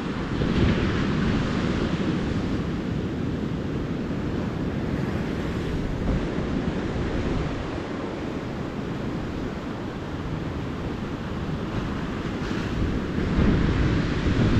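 Calm ocean surf breaking and washing up the beach, with wind buffeting the microphone. The surf swells louder just after the start and again near the end.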